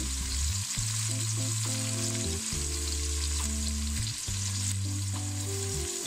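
Hot oil sizzling steadily as scored eggplants and potato slices shallow-fry in a pot over a medium flame.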